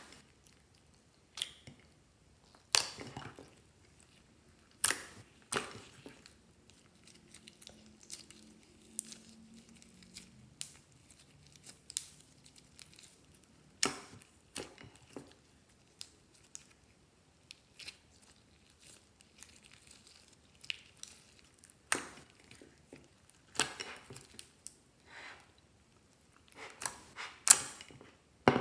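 Clear slime with eyeshadow mixed in being stretched, folded and squeezed by hand, giving irregular sharp pops and crackles of trapped air, with softer squelching in between.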